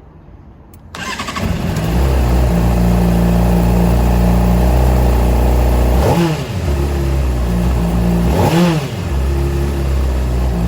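Honda CBR600RR's inline-four engine starting about a second in and settling to a steady idle. The throttle is blipped twice, each rev rising and falling quickly.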